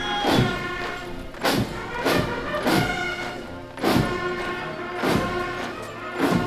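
Military band music: a march with a strong drum beat about every 0.6 seconds under held notes.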